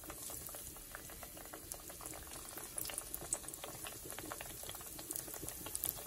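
Fried dumpling dough rounds sizzling in hot oil in a frying pan: a steady bubbling hiss with a dense crackle of small pops.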